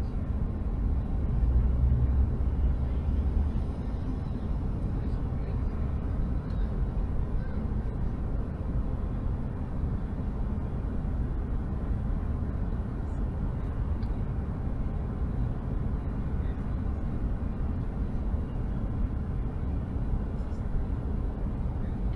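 Steady low rumble heard from inside a car, swelling a little about two seconds in.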